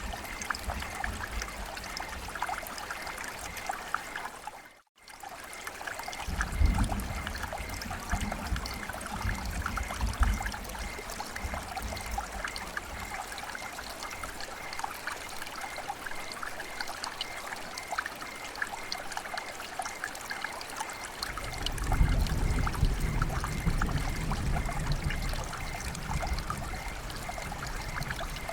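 Rain falling with trickling, flowing water, a steady hiss full of fine droplet ticks. The sound drops out for an instant about five seconds in, and a low rumble comes in from about 6 to 10 seconds and again from about 21 seconds on.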